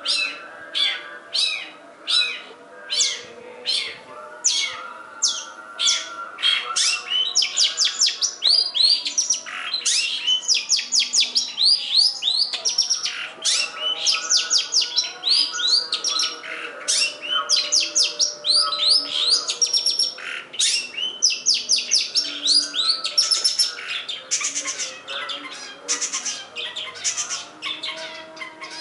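Long-tailed shrike (pentet/cendet) singing a full song packed with mimicked phrases. It opens with separate sharp notes about twice a second, then breaks after about six seconds into a fast, dense run of high rising and falling whistles and trills.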